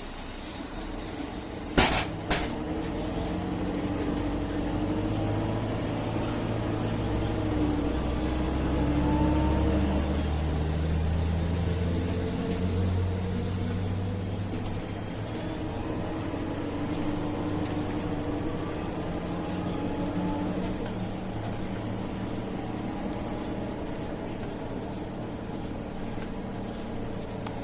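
MAN A21 city bus's diesel engine accelerating, its pitch rising over several seconds and then holding steady as the bus runs on. A sharp knock sounds about two seconds in.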